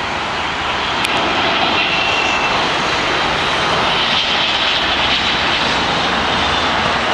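Jet engines of a Boeing 777-200ER running: a loud, steady rush with a faint high whine, growing slightly louder about a second in.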